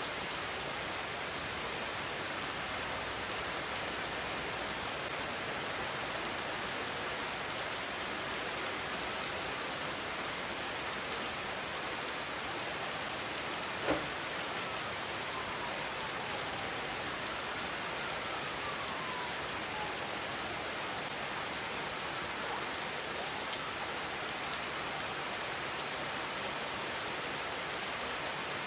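Steady rain falling, an even hiss with no letup. About halfway through there is a single sharp tap, followed by two faint falling tones.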